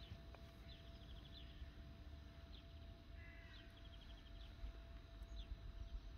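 Faint birdsong: short high trills and chirps every second or so, over a low steady rumble.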